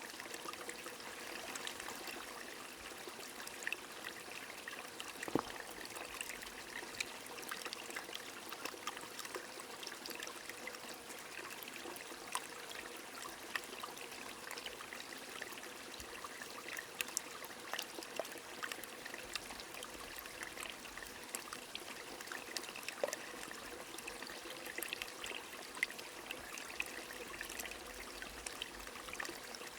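Light rain and a small stream: a steady rush of running water with many scattered drop ticks.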